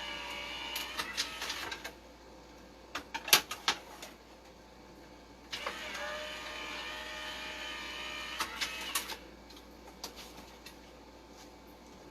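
Electric die-cutting and embossing machine running its motor as a plate sandwich with a 3D embossing folder is fed through, whining steadily for about two seconds, stopping, then running again for about three and a half seconds. Sharp clicks and taps of the plates being handled fall in the pauses.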